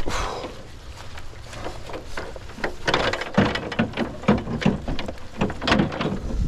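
Irregular knocks, clanks and scrapes of a ladder being set in place and climbed, over a steady low rumble.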